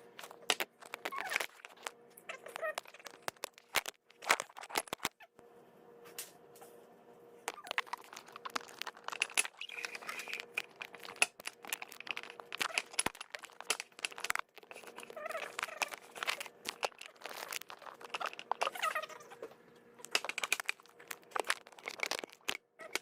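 Dishes and utensils clattering and clinking as they are cleared out of a kitchen sink, in a dense irregular run of knocks, over a faint steady hum.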